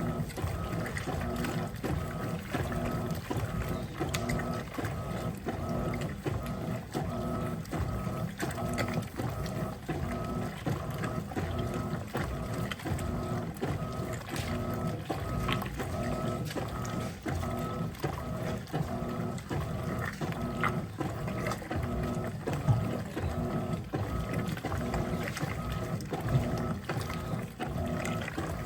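Electrolux LTP15 top-loading washing machine agitating a load of clothes, its LPR16-style agitator driven back and forth in a steady rapid rhythm, with motor and gear hum and water sloshing.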